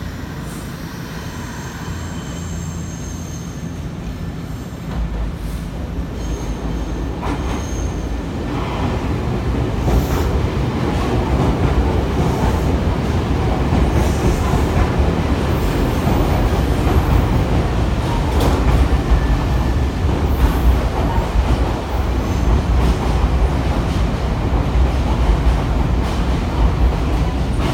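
Nankai electric train running close by, its rumble growing louder over the first ten seconds or so and then holding steady, with brief high-pitched wheel squeals a few seconds in.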